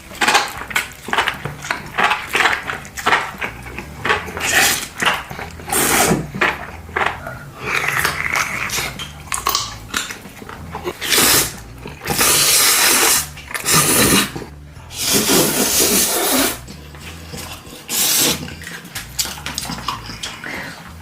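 Close-up eating sounds: bites into a deep-fried bread pakora, with crunching and chewing as many short sharp clicks and several longer noisy bursts of about a second each.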